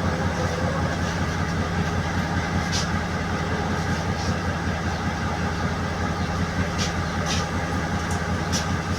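Sri Lanka Railways Class S11 diesel multiple unit running, a steady low engine drone with the rumble of the train, and a few short sharp ticks now and then.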